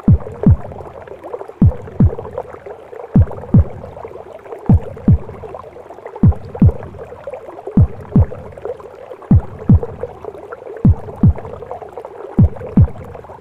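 A mother's heartbeat as heard in the womb: slow, even lub-dub pairs of deep thumps about every second and a half, over a steady muffled whooshing of womb sound.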